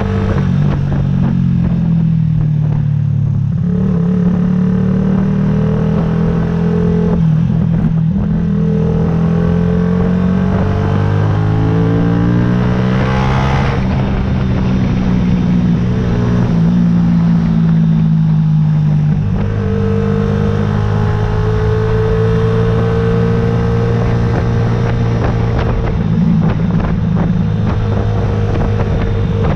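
Yamaha YZF-R125's single-cylinder four-stroke engine under way. The engine pitch climbs and drops back several times as it works through the gears, with one sharp rev climb about halfway through.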